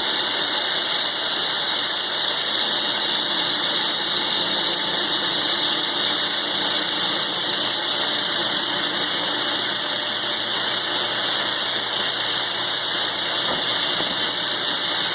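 Milling machine taking a slow cut in thick steel with a roughing end mill: a steady high-pitched cutting noise over the machine's running, even throughout.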